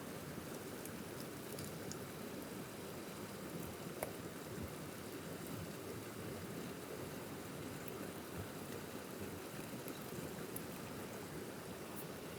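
A forest stream running steadily, with a few faint scattered clicks, the sharpest about four seconds in.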